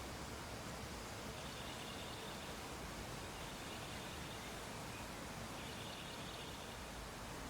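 Steady background hiss, with a faint high-pitched call about a second long repeating roughly every two seconds.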